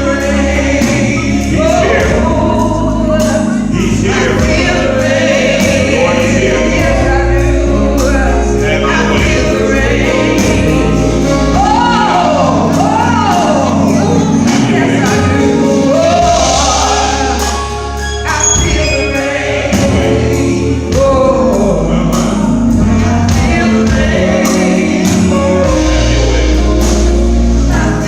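Gospel music with a choir singing over a band with bass and drums, played loud and steady.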